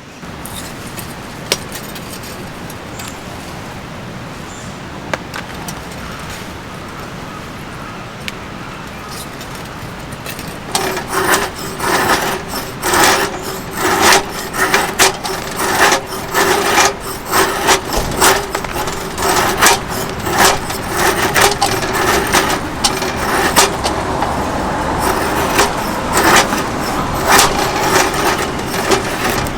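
A steady hiss with a few isolated clicks; about ten seconds in, a dense, irregular run of knocks and clinks starts and keeps going.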